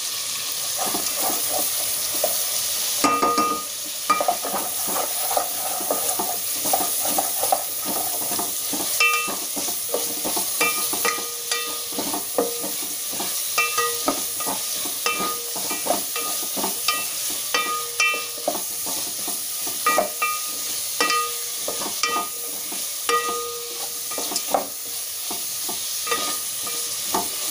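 Vegetables frying in oil in a metal pot, sizzling steadily, while a wooden spatula stirs them and knocks irregularly against the pot, each knock making the pot ring briefly.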